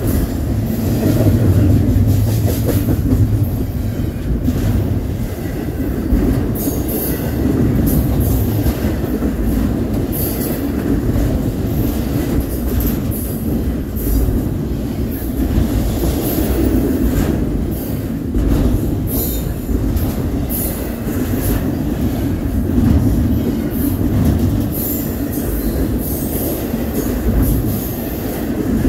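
Union Pacific double-stack container freight train passing close by at speed: a steady rumble of steel wheels on rail, with scattered sharp clicks and brief squeals as the cars go by.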